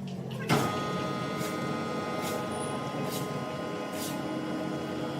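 Sawmill machinery starts about half a second in and runs steadily with a constant whine, with a short click roughly every second.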